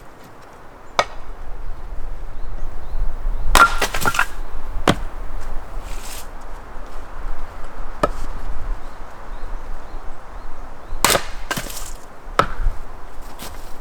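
Sharp chopping strikes on wood, irregularly spaced, with a quick run of several hits about a quarter of the way in, over a steady background rush.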